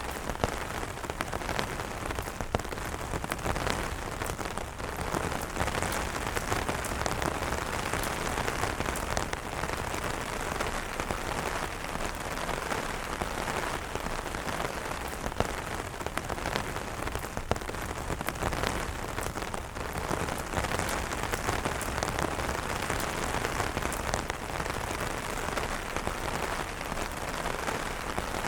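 Steady rain falling on umbrellas: a dense, even hiss with many separate drop strikes ticking through it.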